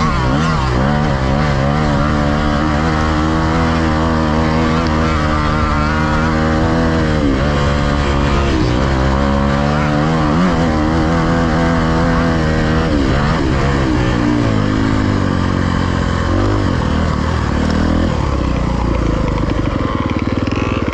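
Dirt bike engine running hard on a trail, its revs climbing and dropping again and again as the bike accelerates, shifts and backs off, then easing lower near the end.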